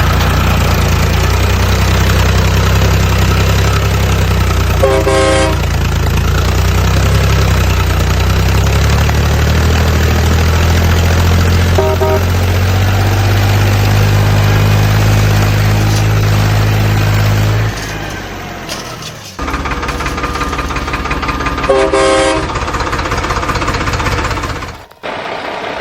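Heavy vehicle engine running steadily with horn honks, one about 5 seconds in and another near 22 seconds; the engine sound changes abruptly about 19 seconds in.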